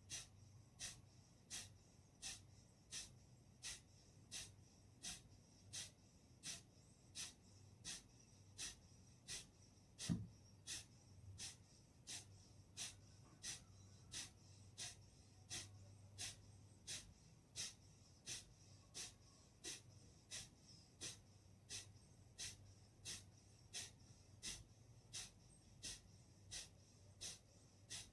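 Kapalbhati breathing: short, forceful exhalations through the nose at an even pace of about one and a half a second, each a brief puff of air. A single low thump about ten seconds in.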